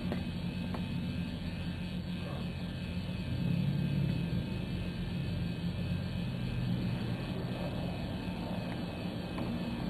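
Car engine idling steadily, heard from inside the cabin as a low hum.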